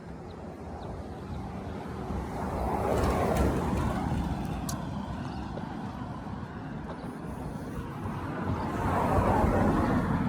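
Road traffic noise: vehicle engine and tyre noise that swells twice, about three seconds in and again near the end, as vehicles go by or pick up speed.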